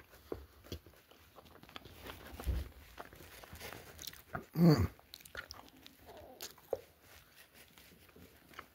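A person eating pizza close to the microphone: small clicks and crunches of biting and chewing. About halfway through comes a short hum of the voice that falls in pitch, the loudest sound.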